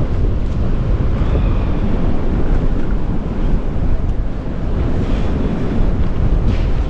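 Strong wind buffeting the microphone, a heavy low rumble that rises and falls with the gusts, with breaking surf mixed in behind it.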